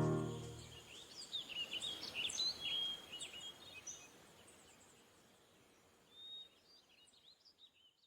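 Guitar music fades out in the first second, then small birds chirp in quick, high, faint calls, pause, and chirp again near the end.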